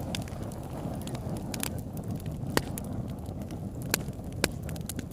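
Campfire burning: a steady low rush of flames with scattered sharp crackles and pops. Three louder pops come in the second half.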